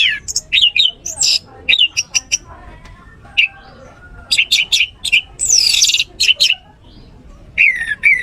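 Orange-headed thrush singing a string of varied phrases: falling whistles and quick high chips, with a short lull around the middle.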